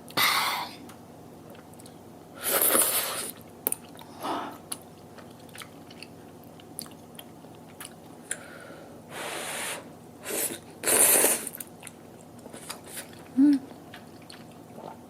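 A person eating close to the microphone: about five crunchy bites, with chewing and small clicks in between.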